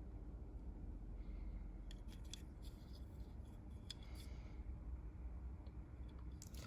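Faint handling sounds, a few light clicks and rubs of small objects, over a low steady hum. The clicks come mostly in the middle seconds.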